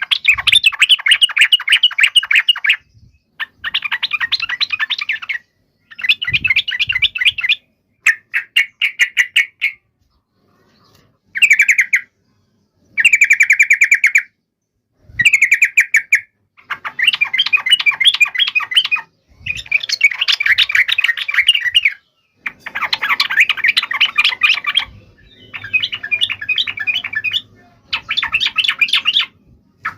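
Yellow-vented bulbul (trucukan) calling in bursts of rapid, chattering notes, each phrase one to three seconds long with short pauses between. This is the excited 'fighting' call that keepers play to make other bulbuls answer.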